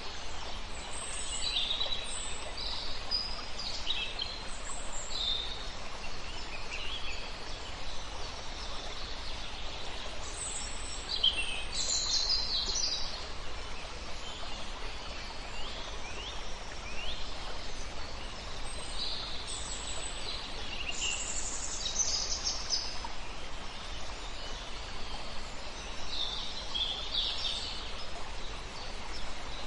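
Several songbirds chirping and singing in short trills that come in clusters every few seconds, over the steady rush of a river.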